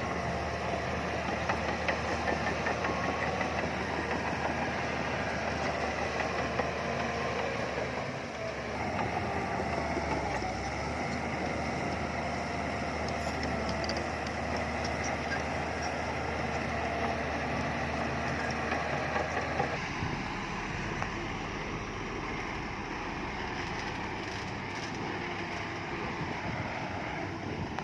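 Heavy diesel engines of earthmoving machinery running steadily; the sound changes abruptly about a third of the way in and again about two-thirds of the way in.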